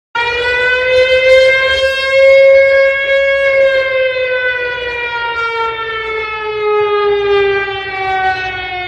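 A siren sounding one long wailing tone that swells slightly in pitch, then slowly falls, and cuts off suddenly near the end.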